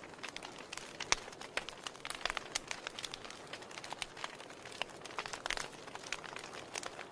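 Wood fire burning in a fireplace: a steady soft hiss with irregular sharp crackles and pops, several of them a little louder, about a second in and around two and a half seconds.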